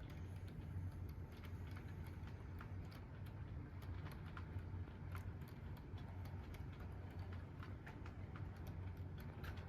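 HO-scale model diesel locomotive running on its track: a low steady hum with irregular light clicks, about two or three a second, as the wheels pass rail joints and turnouts.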